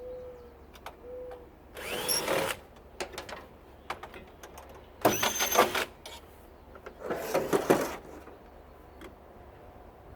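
Cordless drill-driver run in three short bursts, backing screws out of a water heater's sheet-metal panel, with light clicks of handling between runs.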